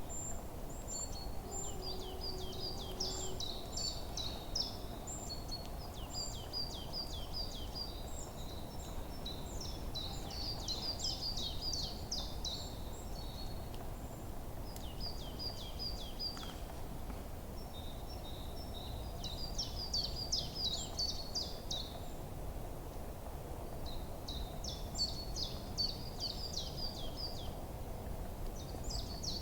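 Forest songbirds singing in repeated bouts of quick, high chirps and trills, with short pauses between bouts, over a steady low background hum of outdoor ambience.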